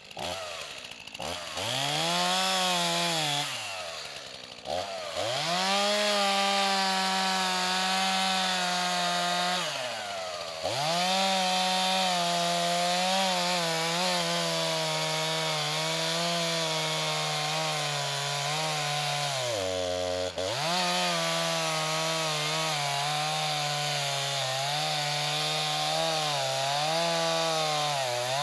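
Rented stump grinder's gas engine running hard while its cutter wheel grinds into a large stump. The engine pitch sags under load and climbs back several times, with deep dips about ten and twenty seconds in.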